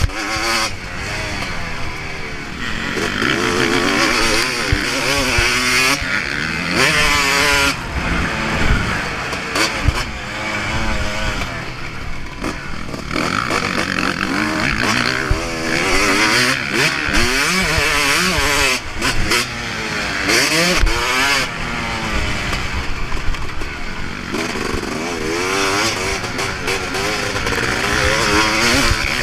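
Motocross bike engine being ridden hard on a dirt track, its pitch climbing and dropping every second or two with the throttle and gear changes, with a few sharp knocks.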